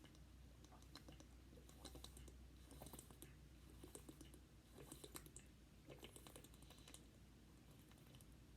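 A person drinking down a bottle of juice. Faint mouth and swallowing clicks come in short clusters, most around the middle.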